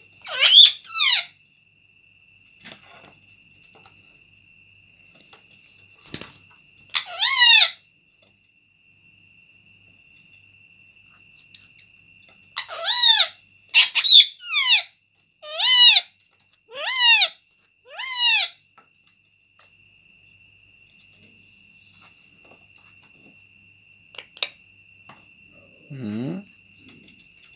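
Parrot calling: short harsh squawks, each sliding down in pitch. One comes near the start and one about seven seconds in, then a run of six follows about a second apart. A faint steady high whine runs underneath.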